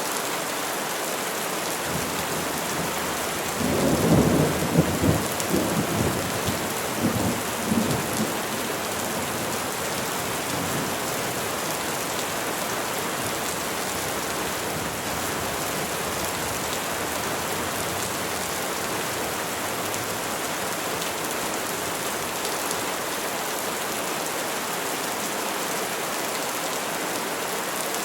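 Steady rain falling on trees, an even hiss, with a low rumble of thunder swelling about four seconds in and dying away a few seconds later.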